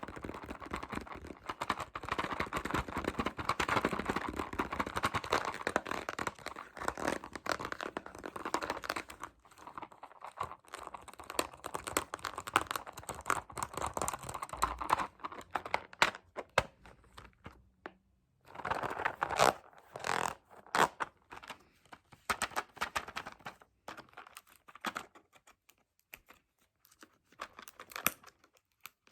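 Fast, aggressive ASMR tapping and scratching: a dense run of quick taps and scratches for about the first half, then sparser, separate taps with short pauses.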